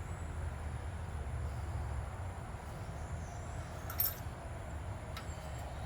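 Steady low background hum, with one sharp click about four seconds in and a fainter click near the end.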